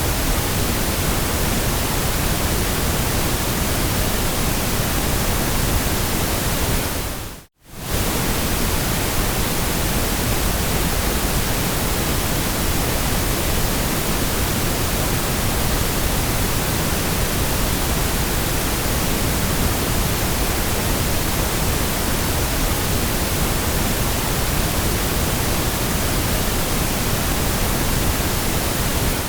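Steady synthetic white noise, an even hiss spread from the lowest to the highest pitches. It fades out and back in within about half a second, about seven and a half seconds in.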